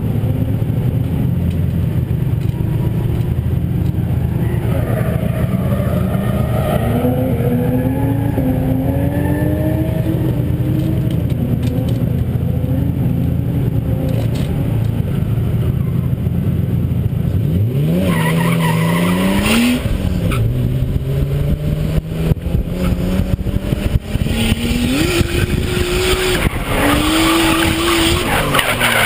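Nissan S14's RB20 straight-six idling steadily, then revving sharply about eighteen seconds in as the car launches. It revs rising and falling through the drift, with tyres skidding and squealing near the end.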